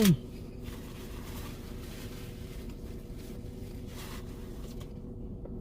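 Faint chewing and mouth sounds of someone eating a sandwich, a few soft clicks and smacks over a steady low room hum.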